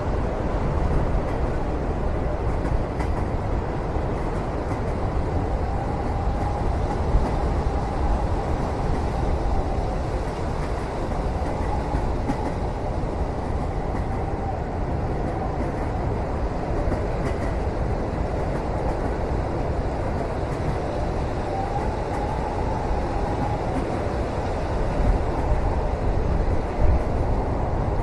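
Steady low rumble of a moving train heard from inside a passenger cabin, with a faint wavering whine that comes and goes and a few light knocks.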